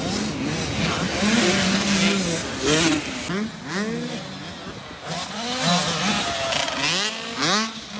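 Motocross dirt bikes on the track, engines revving up through the gears: one rising pitch after another, each cut off and starting over as the riders shift and roll off the throttle, with several bikes overlapping.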